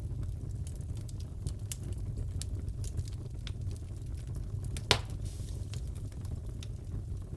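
Crackling wood fire in a fireplace: a steady low rumble with scattered small crackles and one loud pop about five seconds in.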